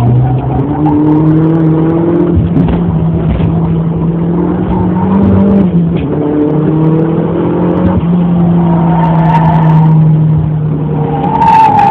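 Mazda MX-3's swapped-in turbocharged Mazda BP 1.8-litre four-cylinder engine heard from inside the cabin, running hard around the track with the revs climbing and dropping several times. Tyres start to squeal near the end.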